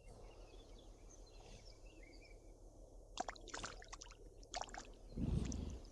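Faint water ambience: several small splashes a little after three seconds in and again around four and a half seconds, with faint bird chirps earlier. A low rumble begins about five seconds in.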